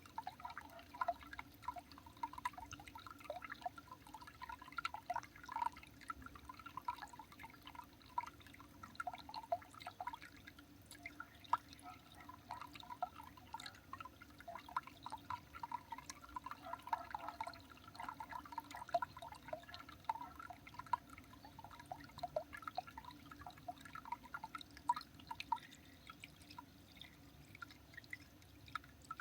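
Water dripping: many small, irregular drops plinking several times a second, over a faint steady background hum.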